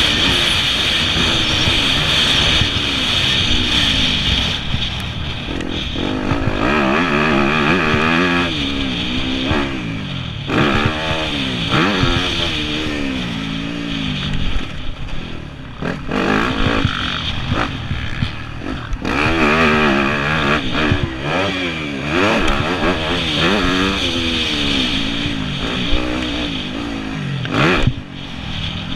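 Yamaha YZ250F four-stroke single-cylinder motocross engine, revving up and dropping off again and again as the throttle is worked around the track, with a few sharp knocks along the way.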